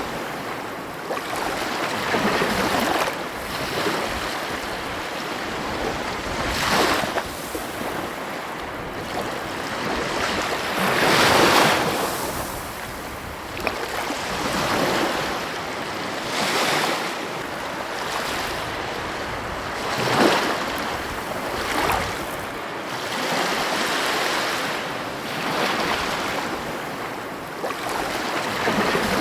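Ocean surf: waves breaking and washing up on the shore in a steady rush, swelling every few seconds, loudest about eleven seconds in.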